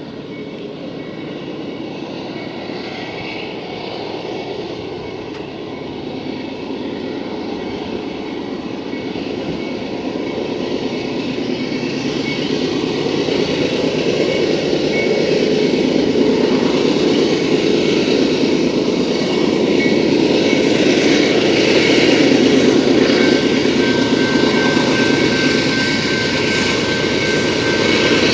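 Approaching freight train's diesel locomotives running, a steady rumble that grows louder as the train comes closer.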